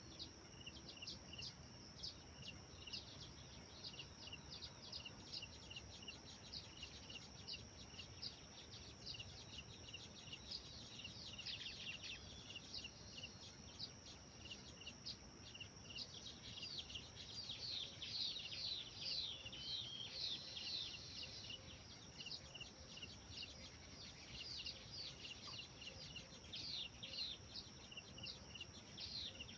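Songbirds chirping, with many quick falling notes and a rapidly repeated short chirp, busiest about two-thirds of the way through, over a steady high-pitched drone.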